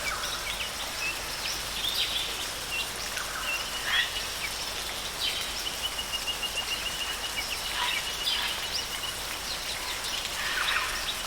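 Rainforest ambience: a steady hiss with scattered bird calls. A rapid trill of evenly spaced high notes starts about five seconds in and lasts several seconds, and another starts near the end.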